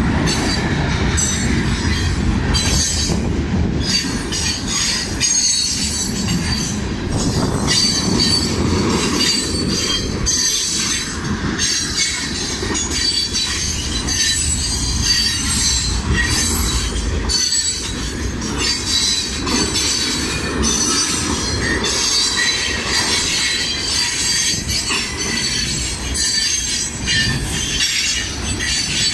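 CSX freight train cars rolling past, with a steady low rumble, high-pitched wheel squeal and repeated clattering knocks from the wheels on the rail.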